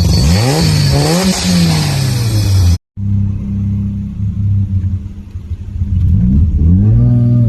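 Mazda RX-7 FD's rotary engine revving up under acceleration, its pitch climbing and falling back through gear changes, then running steadily before climbing again near the end. The sound drops out completely for a moment about three seconds in.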